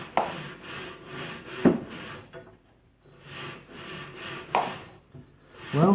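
Coil brush scrubbing through dust-clogged refrigerator condenser coils in two spells of quick scratchy strokes with a pause between, each with a sharp knock as the brush hits the coils.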